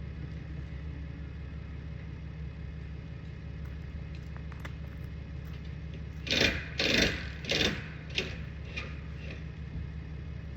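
Steady low mechanical hum, with three short loud scraping noises in quick succession a little past the middle and a few fainter clicks after them.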